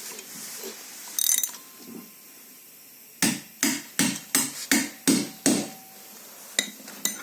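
A hand hammer striking repeatedly: a run of about eight sharp blows, roughly three a second, beginning a little after three seconds in, then two lighter knocks near the end, some leaving a faint metallic ring. Before the blows there is a short ratchet-like rattle about a second in.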